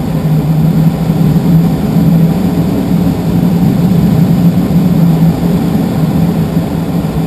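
Steady rush of air through a glider's open cockpit window and vent in flight, with an even low hum under it.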